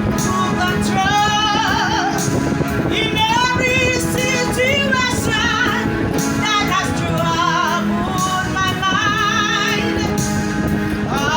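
A song: a singing voice with wide vibrato over steady instrumental accompaniment.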